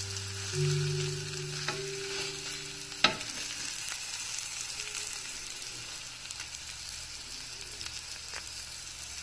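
Egg omelette sizzling in oil in a frying pan, a steady hiss, with a wooden spatula knocking and scraping against the pan a few times; the sharpest knock comes about three seconds in.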